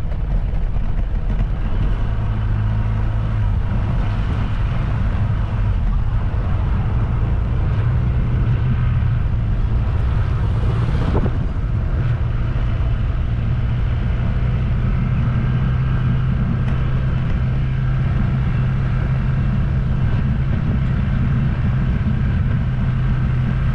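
A vehicle engine running steadily at a constant speed, with a drone and noise throughout; its pitch settles about a second in.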